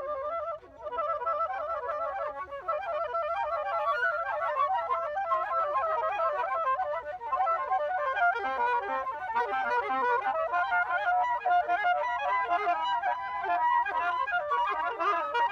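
Woodwind instruments playing fast, busy runs of notes in a live jam, after a brief pause just under a second in.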